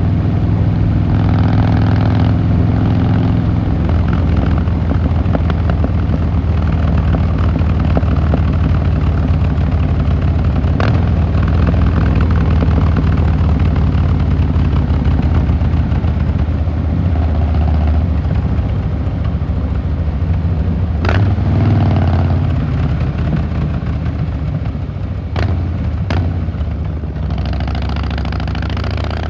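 Harley-Davidson Fat Boy Lo V-twin engine and exhaust running steadily. A few sharp clicks come through about eleven seconds in, around twenty-one seconds, and twice around twenty-five to twenty-six seconds.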